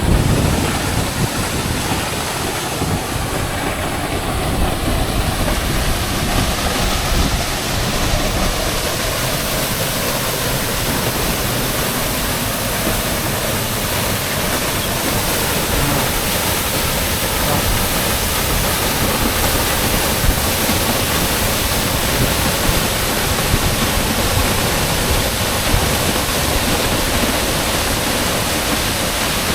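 A small, vertical waterfall heard close up: a loud, steady rush of falling water.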